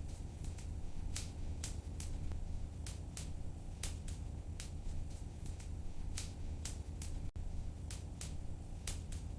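Wood fire crackling, with sharp irregular pops and snaps about two to three times a second over a steady low rumble of the flames.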